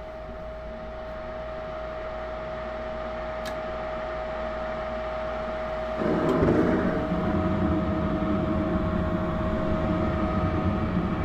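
Propane gas furnace running: a steady humming tone with noise slowly growing louder, then about six seconds in a sudden, louder rushing sound as the furnace fires up.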